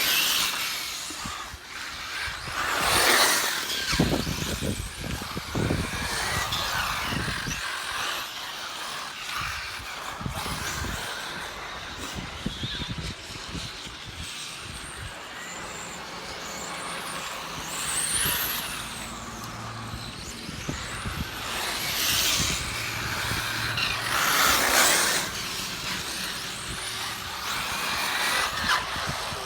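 1/10-scale radio-controlled touring cars racing, their motors whining. They pass close several times, each pass swelling louder and then fading.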